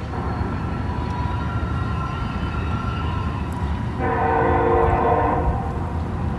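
Diesel locomotive air horn on a freight train: a fainter held blast in the first half, then a louder blast about four seconds in lasting about a second and a half. A steady low rumble runs underneath.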